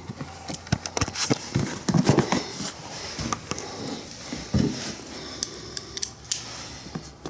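Irregular light clicks, taps and knocks of parts being handled and fitted by hand on a motorcycle, a few to several per second.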